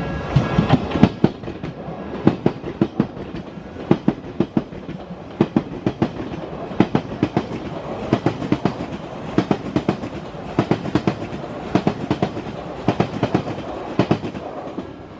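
Odakyu electric commuter train passing over the level crossing, its wheels clacking over the rail joints in quick repeating groups along the length of the train.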